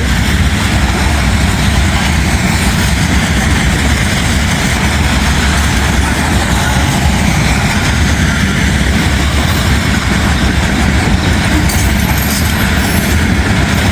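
Loaded steel coil freight cars rolling past: a steady, loud rolling noise of steel wheels on rail.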